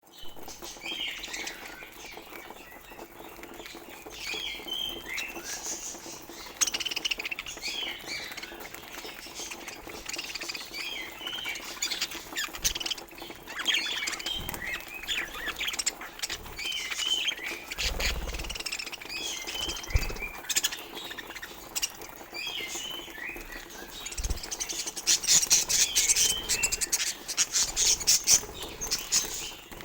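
Budgerigars chirping and chattering in short, quick calls with squawks, mixed with scattered sharp clicks; the chatter grows busier and louder near the end.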